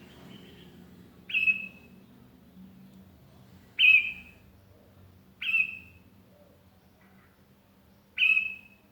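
Sooty-headed bulbul (kutilang) giving four loud, short calls, each starting sharply and trailing off, spaced a second and a half to three seconds apart.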